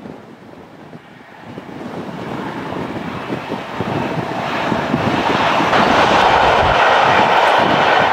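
A train approaching on the line, growing steadily louder over the first five seconds and then running loud and steady as it comes by.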